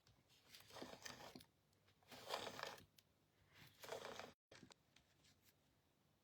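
Three short, faint rustles of paper cardstock being handled, spread over a few seconds, with a few faint ticks near the end.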